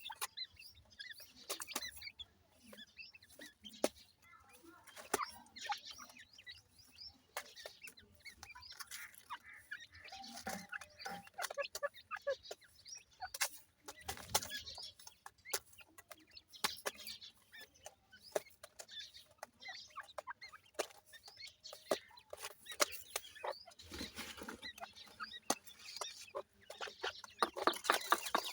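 Ringneck pheasant chicks peeping and cheeping in short, high calls, mixed with scattered sharp clicks and taps that come thick and fast near the end.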